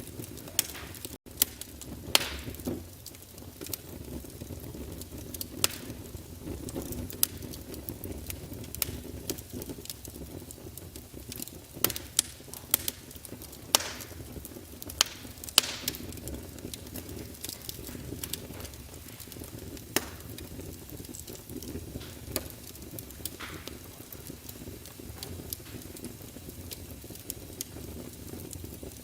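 Wood fire burning in a fireplace, with a steady low rumble of flames and irregular sharp crackles and pops from the burning logs.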